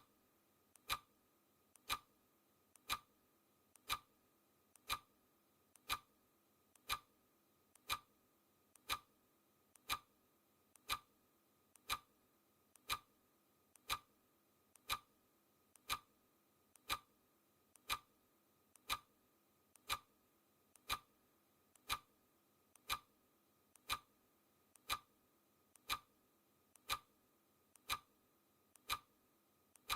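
Clock ticking sound effect counting down the seconds on a countdown timer: one sharp tick a second, each with a faint click just before it.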